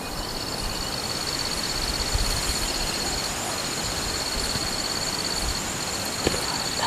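Insects shrilling in one steady high-pitched trill that breaks off briefly a few times, with a fainter higher trill above it, over a steady hiss.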